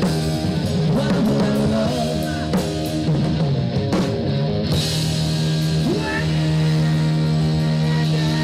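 Live rock band playing, with electric guitar and drum kit. Bending guitar lines give way to a chord held ringing from about six seconds in.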